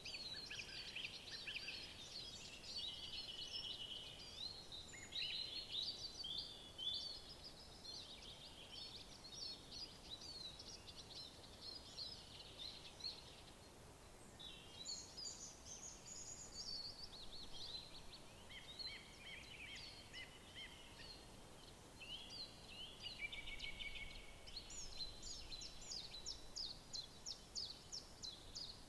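Several songbirds singing at once, a dense, overlapping chorus of high chirps and short warbled phrases. Near the end one bird repeats a quick, even series of high notes.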